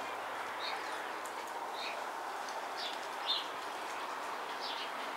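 Small birds chirping now and then, a few short high calls scattered over a steady outdoor hiss.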